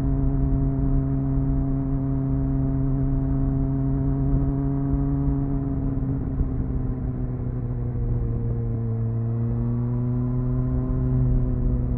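Triumph Speed Four's 600cc inline-four engine running at a steady cruise through the stock exhaust. The revs ease off slightly partway through and pick up again near the end.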